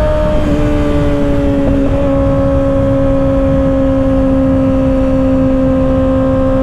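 Kawasaki ZX-6R 636's inline-four engine running at steady high revs under way, through an aftermarket M4 exhaust. Its pitch shifts slightly in the first two seconds, then holds steady.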